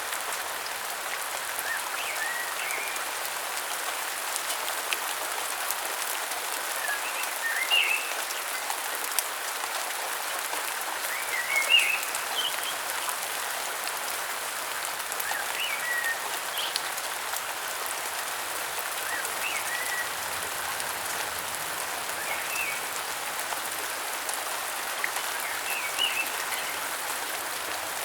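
Steady rain falling in a rainforest, with short high bird chirps every few seconds over it.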